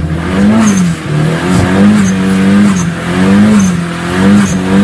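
A car engine revved in repeated blips, about five times, its pitch rising and falling with each one.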